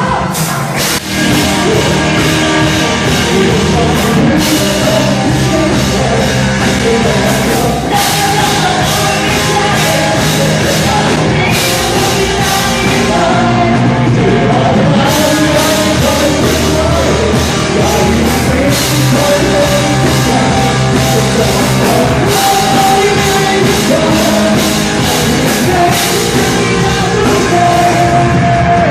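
Live band playing loud rock music with a singer.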